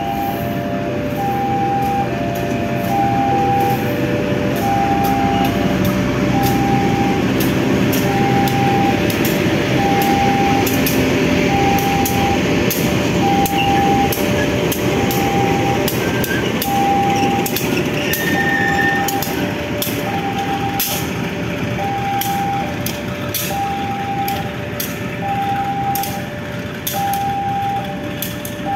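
Stainless-steel passenger coaches shunted past at low speed, wheels clacking over rail joints, with a CC 204 diesel-electric locomotive at the end running past about halfway through, when the rumble is loudest. Throughout, a level-crossing alarm repeats an electronic chime, a high beep about once a second with lower beeps between.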